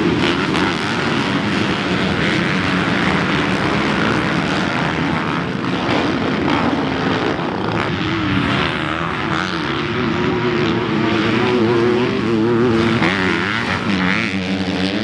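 Several motocross dirt bike engines racing past, each revving up and down as the riders work the throttle and shift, with the pitches overlapping.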